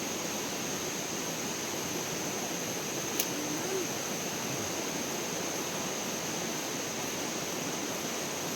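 Steady rushing of flowing water, with a single sharp click about three seconds in.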